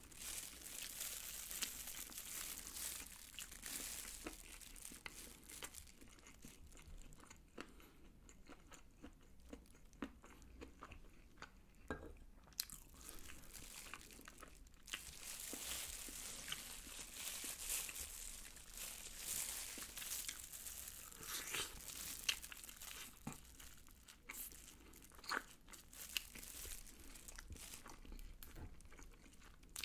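Close-miked chewing of sauced fried chicken and rice, with crunching of the chicken's coating and a few sharper clicks.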